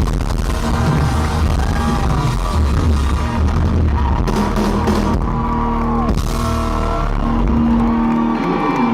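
A live pop-rock band playing loudly, with held notes over a heavy bass, and a note bending down about six seconds in.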